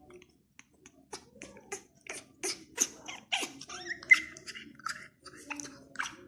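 A pet parrot making a quick, irregular run of short squeaks, clicks and chirps, with a brief whistled note about four seconds in.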